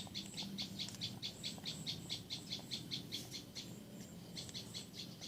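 Rapid, evenly repeated high chirping from a wild animal, about five or six chirps a second, pausing briefly around four seconds in, over a faint low hum.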